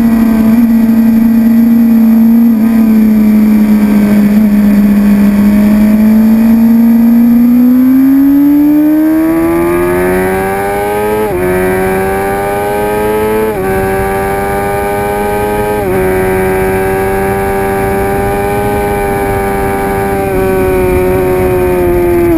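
2006 Suzuki GSX-R750 inline-four sport bike engine running hard. Its note holds steady for several seconds, then climbs over a few seconds and holds at a higher pitch, dipping briefly three times.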